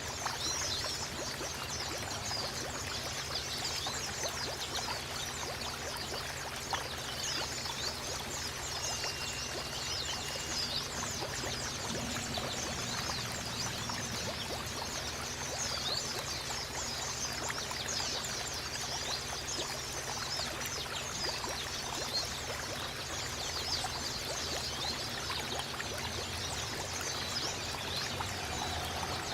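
Steady running water, like a small stream trickling, with many small birds twittering over it in dense, high chirps. A short, steady whistled note sounds about nine seconds in.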